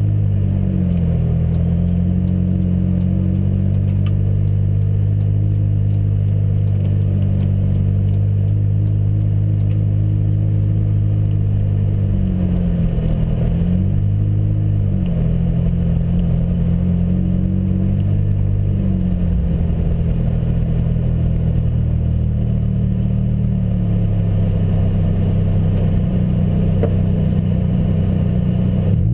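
Lotus Exige Scura's supercharged 1.8-litre four-cylinder engine running at low revs while the car crawls, heard from inside the cabin as a steady drone that dips briefly in pitch a few times as the throttle eases.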